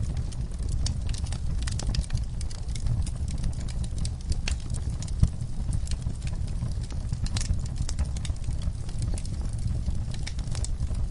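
Wood fire crackling in a fireplace: irregular sharp pops and snaps over a steady low rumble of burning, with one louder pop about five seconds in.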